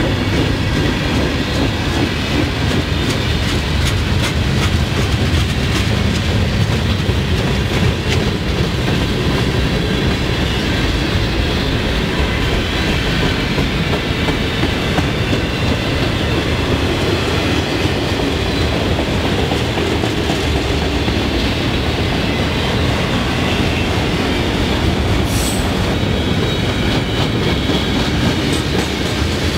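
Mixed freight cars of a long freight train rolling past: a steady rumble and clatter of steel wheels on the rails, with a brief high squeal near the end.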